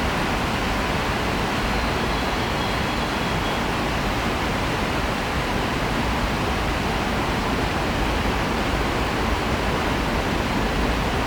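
Steady, even rushing background noise of a Shinkansen station platform, unchanging in level with no distinct events.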